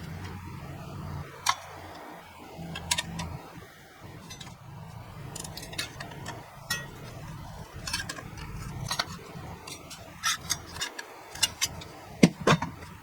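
Irregular sharp clicks and light knocks, loudest and most frequent near the end, over a low steady hum that stops about two seconds before the end.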